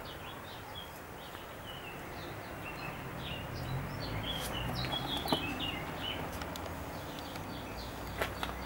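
Small birds chirping: a quick run of short, high chirps, busiest midway, over a low steady rumble. A few sharp clicks come near the end.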